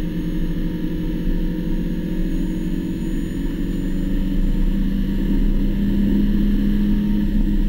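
Spec Miata race car's four-cylinder engine at high revs, heard from inside the cockpit, accelerating in fourth gear with its pitch climbing slowly.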